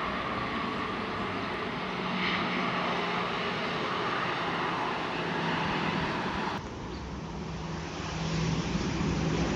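Jet engine noise from a landing Airbus A320, a steady rush with a low hum, that drops abruptly about two-thirds of the way through and then builds again.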